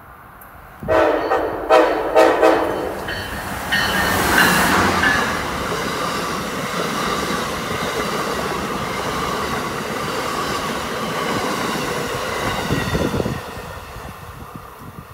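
Amtrak Northeast Regional train behind an ACS-64 electric locomotive sounds its horn in several loud blasts for about three seconds as it approaches. Its Amfleet coaches then pass close by with a steady clatter of wheels on rail, which drops away abruptly near the end as the last car goes by.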